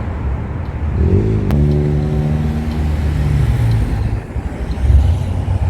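Street traffic: a vehicle's engine passes close by, its pitch falling as it goes, over a steady low rumble of road traffic. There is one sharp click about a second and a half in.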